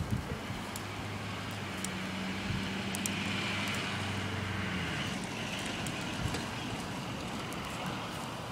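A motor vehicle passing: a steady low engine hum with a swell of road noise that peaks a few seconds in, then the hum stops about five seconds in and the noise fades.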